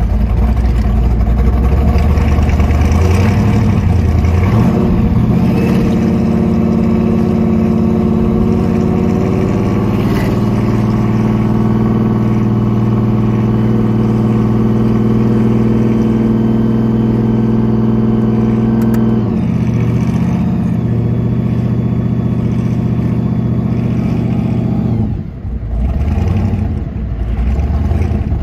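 Supercharged V8 of a 1968 Shelby GT500 'Eleanor' Mustang, its blower standing up through the hood, heard from the driver's seat while driving through town. The engine note climbs about four seconds in and holds a steady drone. It changes briefly just before the twenty-second mark, then drops away near the end.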